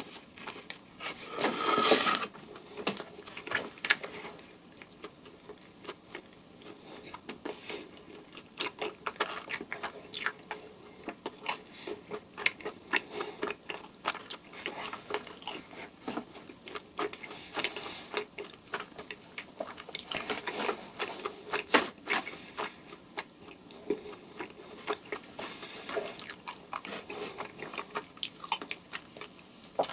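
Close-up chewing of a cream-filled donut: a steady run of small irregular mouth clicks and bites, a little louder about a second or two in.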